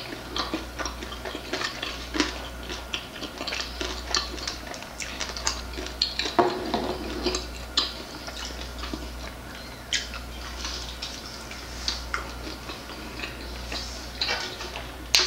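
Close-up eating of crispy barbecue chicken wings: irregular crunches and wet mouth clicks from chewing, over a steady low hum.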